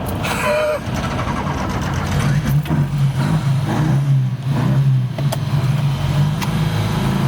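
Car engine running, its low hum growing stronger about two seconds in and then holding steady, echoing inside a road tunnel.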